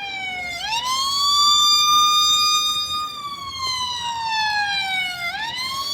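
Electronic police-style siren wailing: its pitch jumps up quickly about half a second in, holds steady for a couple of seconds, then slides slowly down, and jumps up again near the end.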